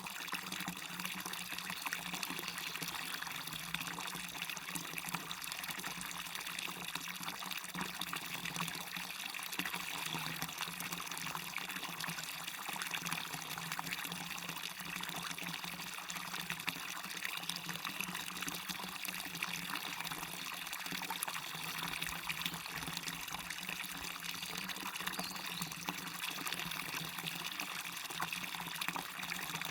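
Waterfall: water falling and rushing steadily, an even, unbroken noise.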